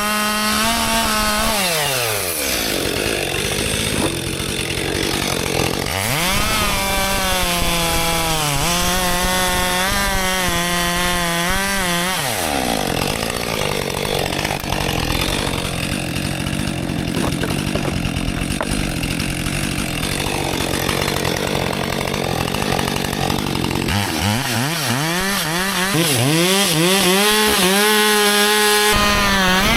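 Husqvarna 564 XP two-stroke chainsaw running at high throttle while cutting frozen red oak, its engine note rising and dropping back several times, with a rougher stretch in the middle of the cut.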